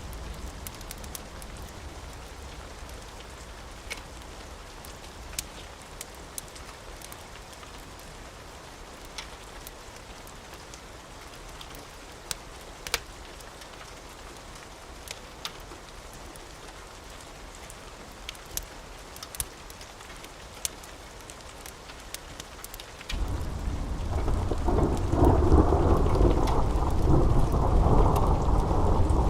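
Steady rain with scattered sharp little crackles, then near the end a loud rumble of thunder sets in suddenly and keeps rolling.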